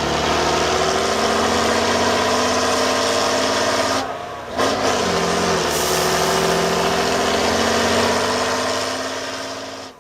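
Off-road trial truck's engine running under load, its pitch slowly climbing. It drops briefly about four seconds in, picks up again, and fades out at the end.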